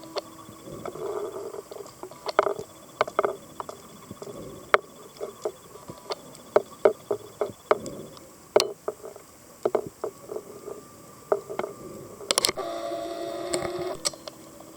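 Underwater sound on a scuba dive: a diver's regulator breathing, with bubbling exhales and a droning inhale near the end, under many scattered sharp clicks and crackles.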